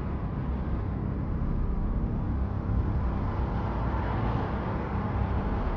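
Steady low rumble of a motor vehicle driving, engine and road noise.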